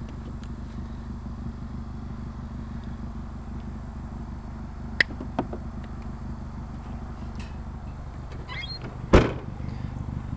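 Car engine idling with a steady low rumble. There is a sharp click about halfway, then a short rattle and a single heavy thump near the end.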